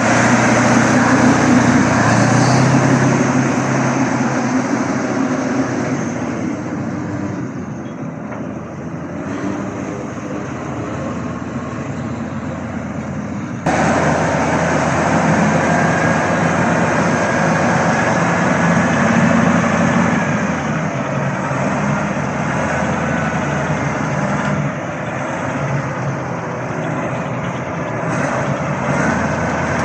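Kirovets K-700 tractor's diesel engine running with a steady low drone. About halfway through, the sound jumps abruptly louder and brighter.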